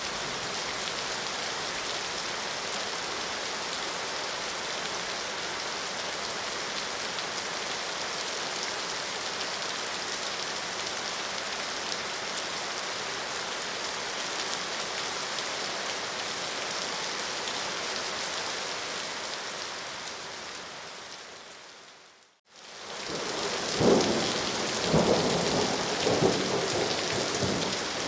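Steady rain pouring, which fades out about 22 seconds in and comes back as heavier rain with rumbles and cracks of thunder near the end.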